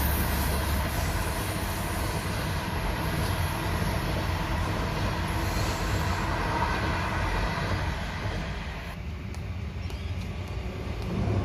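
A train rolling past on the rails, its cars making a steady rumble that fades away about nine seconds in; a low rumble starts to build again near the end.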